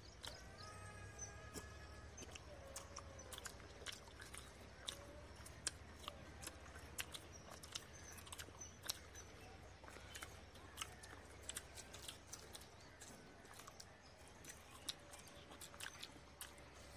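Faint, close chewing and biting of crisp-fried egg lollipops, with irregular small crunches and mouth clicks.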